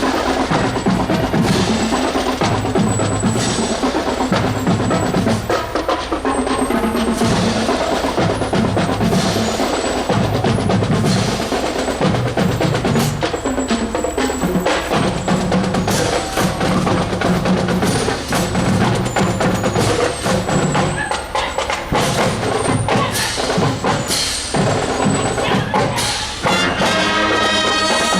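Marching band drum line playing a cadence on its drums, with the brass section coming in near the end.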